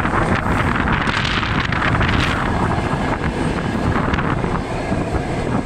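Wind rushing over the microphone from a moving passenger train, over the steady rumble of the carriage running on the rails.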